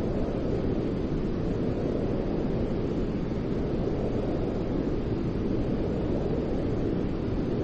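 Steady low rushing noise, even and unchanging, played as a white-noise sleep sound for a baby.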